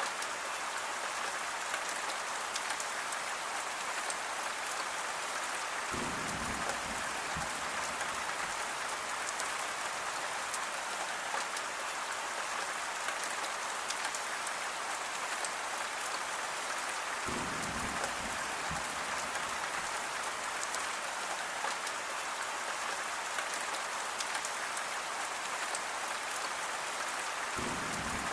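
Steady rain falling on a surface, a dense patter of drops. A brief low rumble swells in three times, about ten seconds apart.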